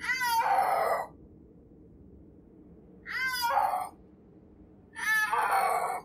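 Snow leopard calling three times, each call about a second long. Each starts as a pitched cry that falls in pitch and ends rough and hoarse.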